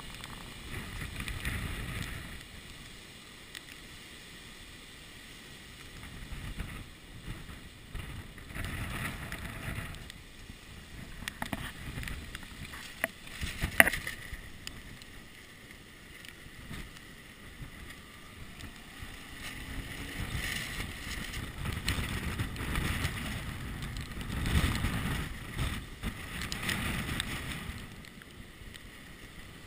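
Gusty hurricane wind buffeting a camera in a waterproof housing: a muffled rumble that rises and falls, strongest in the second half, with one sharp knock about fourteen seconds in.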